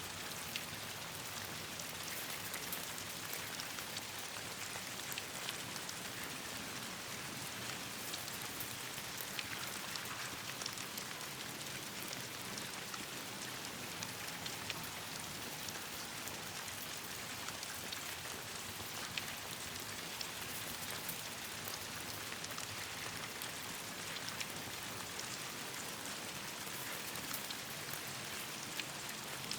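Steady rain falling, an even hiss with many small sharp drop ticks scattered throughout.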